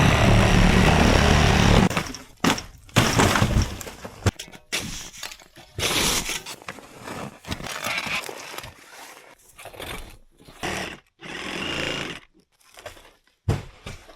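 Cordless reciprocating saw (Sawzall) running steadily as it cuts through roof rafters, shingles and fiberglass, then stopping about two seconds in. Irregular knocks, cracks and scrapes follow, with short pauses between them.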